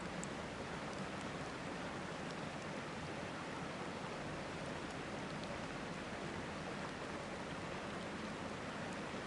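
Steady rushing of river water, with a few faint crackles from a campfire.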